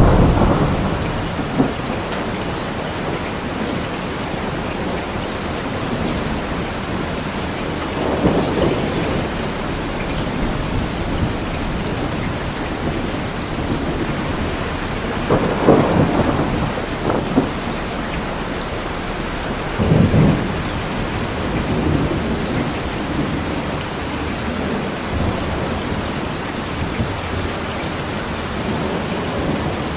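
Steady heavy rain falling, with thunder rumbling several times: near the start, around a quarter of the way in, at the middle and again a little later.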